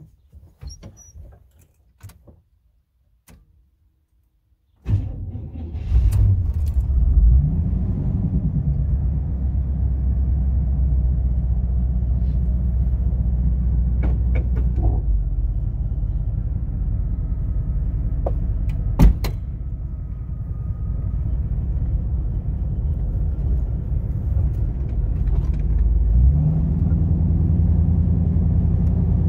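A few faint clicks, then about five seconds in the GMC Vandura / Chevy G20 van's V8 starts and runs, its pitch rising briefly just after it catches and then settling to a steady idle with a few sharp knocks. Near the end the engine speed rises again.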